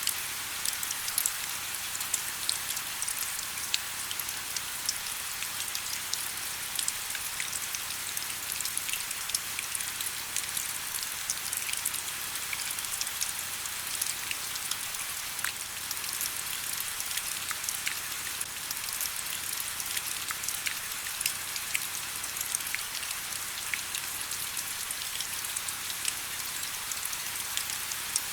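Steady rain, with a continuous hiss full of many small, sharp individual drop ticks.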